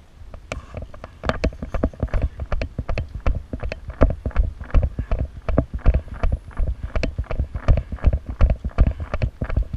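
Irregular footsteps with knocks and rattles of carried gear, a few per second, as the player moves, with thumps on the body-worn microphone.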